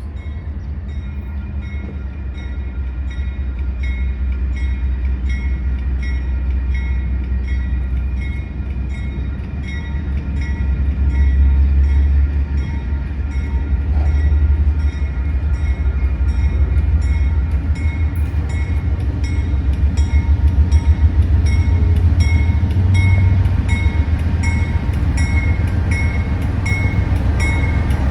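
A train running close by, with a deep engine rumble that grows louder, and a fast, evenly repeating high ringing over it.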